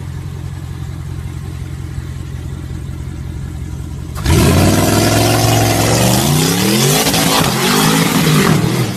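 Big-turbo high-horsepower car engine idling with a low rumble, then about four seconds in revving hard and loud, its pitch climbing and falling through several revs.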